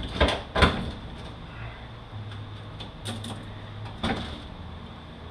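Sharp metal clanks and clicks from a 545RFE transmission's clutch pack as the pressure plate is pried off with a screwdriver: two close together in the first second, the loudest about half a second in, then more near three and four seconds.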